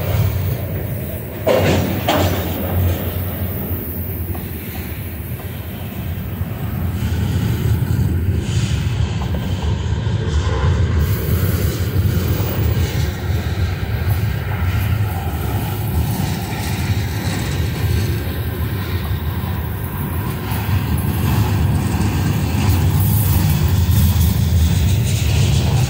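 Freight train of open-top gondola cars rolling past: a steady low rumble of steel wheels on the rails, with two sharp clanks about two seconds in.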